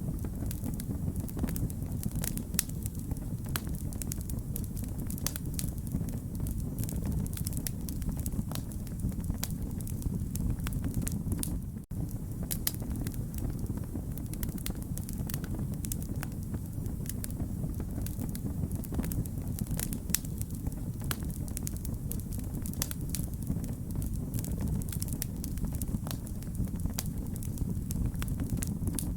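Wood fire crackling steadily: a constant low rumble of burning with many sharp, irregular pops and snaps, and a momentary dropout about twelve seconds in.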